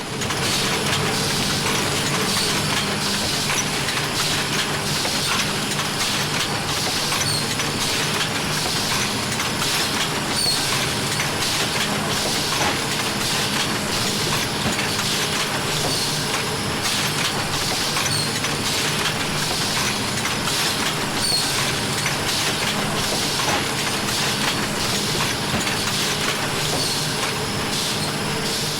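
A steady mechanical rumble with dense, fast clattering, faded in at the start and out at the end.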